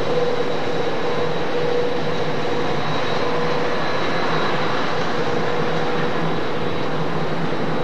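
A passenger train running on the rails: a steady, continuous rolling noise with a faint wavering hum through it.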